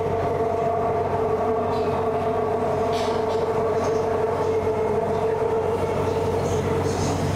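Interior of a Bangkok BTS SkyTrain car running at steady speed on the elevated line: a continuous rumble from the running gear under a steady electric motor whine.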